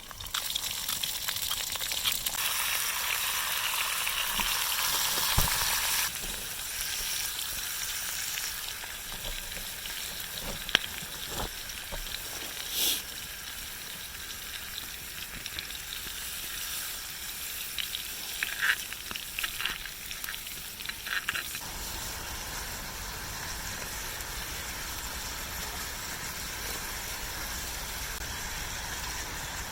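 Steak sizzling as it fries, loudest for the first six seconds, then softer with a few scattered clicks and taps; after about twenty seconds it gives way to a steadier, lower hiss.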